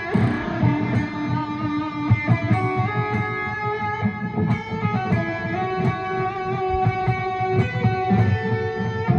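Electric guitar playing a Lydian-mode melodic line in D, with a strummed chord at the start and then sustained single notes that change every second or so, over a steady low rhythmic pattern.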